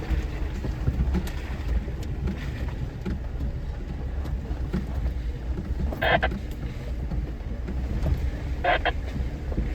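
Off-road vehicle driving slowly over a rough trail: a steady low rumble of engine and tyres, with two brief sharper noises about six and nine seconds in.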